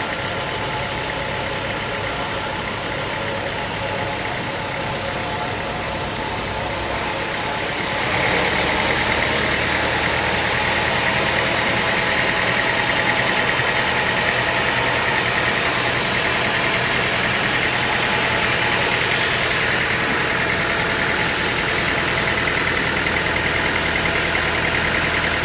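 Sawmill machinery running steadily with an engine-like drone. About eight seconds in it gets louder and a steady high whine joins in.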